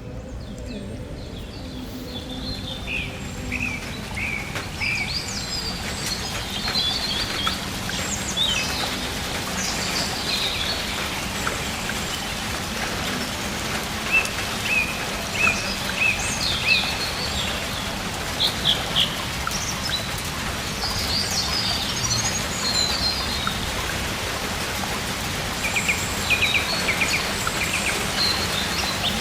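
Steady rain falling, a continuous hiss, with birds chirping in short repeated calls over it throughout.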